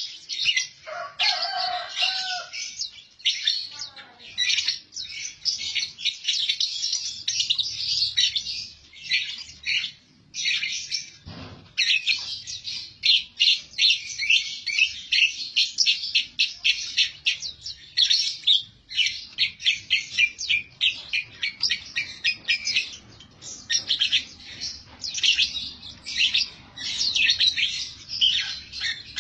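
Lovebirds chirping rapidly and almost without pause, shrill high notes packed closely together, with a short break about ten seconds in followed by a soft thump.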